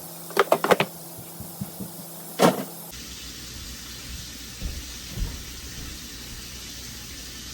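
Kitchenware clinking: a quick run of light clicks and then a single louder knock. After that a steady hiss starts abruptly and runs on.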